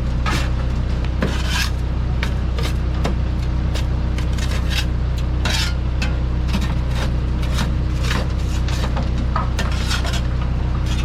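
Dump truck's diesel engine running steadily, with irregular scraping and clattering clicks over it.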